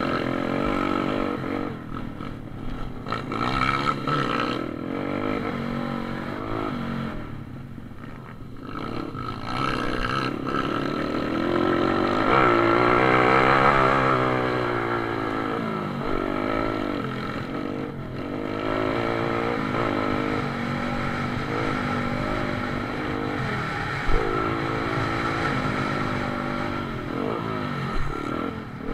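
Several pit bike engines racing, their pitch repeatedly rising and falling as the riders rev, shift and brake for corners, growing loudest around the middle as one bike passes close. A single sharp knock near the end.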